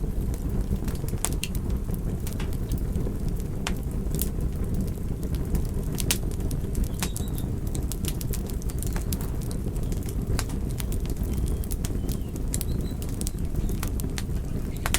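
Fire crackling: sharp irregular pops and snaps, several a second at times, over a steady low rumble of burning flames.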